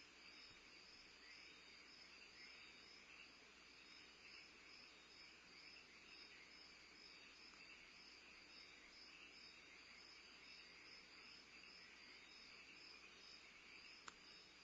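Faint, steady night chorus of crickets, a continuous pulsing trill, with a single small click near the end.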